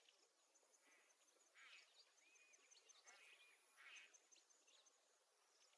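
Near silence with faint bird chirps and a quick, steady insect-like pulsing, a soft nature ambience.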